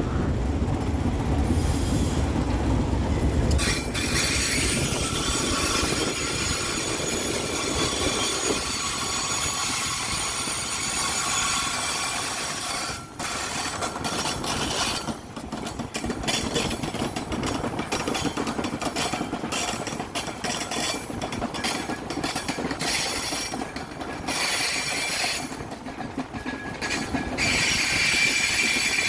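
A train rolling past on steel wheels, with wheel squeal on the rails coming and going and clacking over the rail joints. There is a heavy low rumble in the first few seconds.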